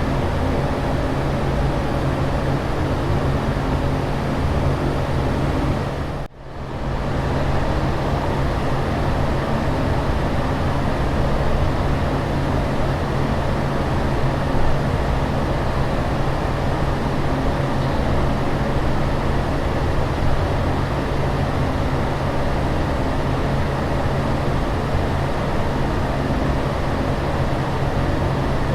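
Steady airliner cabin noise in flight: an even rushing hiss over a constant low hum. About six seconds in the sound briefly drops out and swells back within a second.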